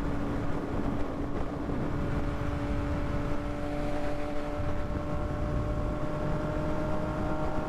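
Motorcycle riding along at a steady pace, the Yamaha MT-09's three-cylinder engine holding a steady note under heavy wind rumble on the rider's microphone.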